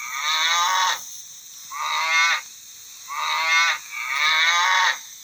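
Cow mooing: four separate moos in quick succession, each lasting about half a second to a second.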